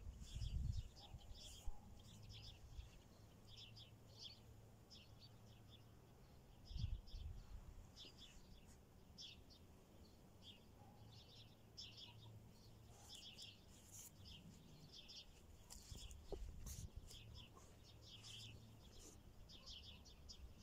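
Faint birdsong: many short, high chirps repeating throughout, with a few low thumps.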